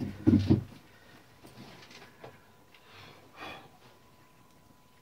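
A person's short, loud breathing noise at the start, followed by faint scattered clicks and a brief swish, from small parts being handled while typewriter key tops are fitted.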